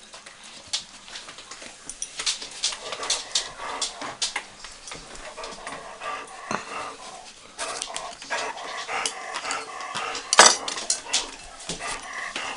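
Several dogs whining and fussing while waiting for pieces of beef, with many sharp clicks and taps and one louder knock about ten seconds in.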